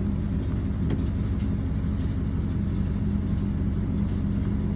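Ford car's engine running steadily with a low, even drone.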